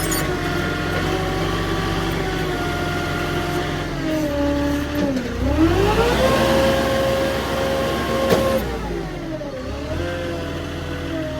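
Boom truck's engine running under the hydraulic crane load, its pitch holding steady, then dropping and climbing again twice, about halfway through and again near the end as the boom is worked. A single sharp click a little past two-thirds of the way in.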